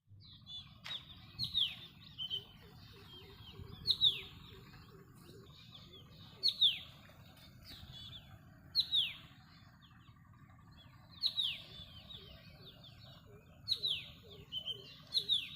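A bird calling with short, sharp chirps that sweep down in pitch, repeated in small groups every two to three seconds, over a low steady rumble.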